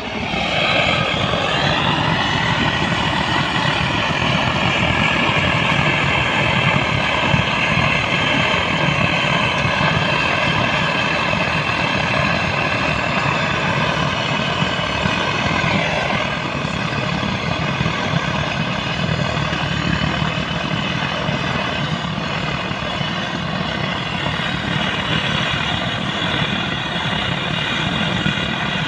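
Diesel engine of a JCB 3DX backhoe loader revving up over the first couple of seconds, then running steadily at raised speed.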